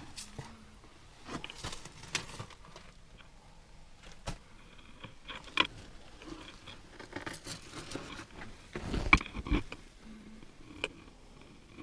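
Irregular footsteps with rustles and knocks, the loudest cluster about nine seconds in.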